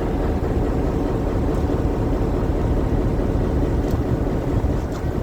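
Steady low rumble of a moving vehicle, with no distinct knocks or changes.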